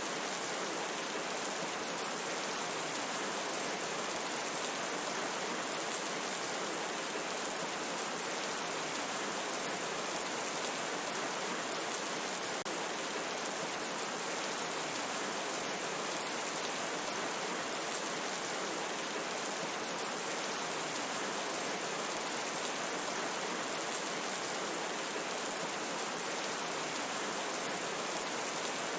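Steady rain falling, a dense even hiss with no distinct drops standing out.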